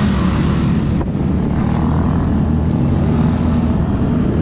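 ATV engine running loud and steady under load, pushing through mud, with a brief knock about a second in.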